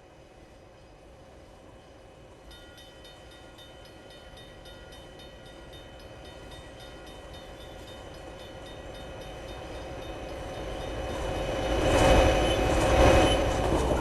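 Grade-crossing bell starting to ring a few seconds in, with a fast steady ding, as a Norfolk Southern freight train led by two EMD SD60M diesel locomotives approaches, its rumble growing steadily louder until the locomotives pass close by near the end.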